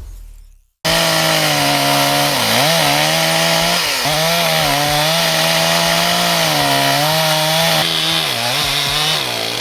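Stihl MS 361 two-stroke chainsaw running at full revs while cutting into an oak. It comes in abruptly less than a second in, and its pitch dips briefly several times as the chain loads up in the wood.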